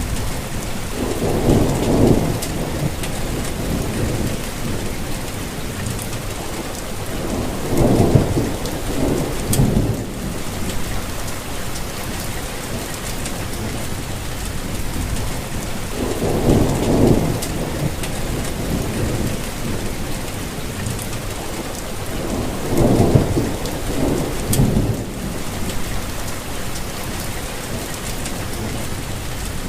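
Steady rainfall pattering on foliage and ground. Several low rumbles swell up and die away over it, each lasting a second or two.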